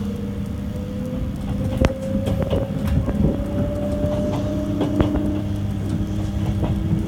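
Electric train of the JR 651 series accelerating away from a station, heard inside the passenger car. A motor whine rises slowly in pitch over the steady rumble of the running gear. Scattered sharp clicks and knocks come from the wheels and car body.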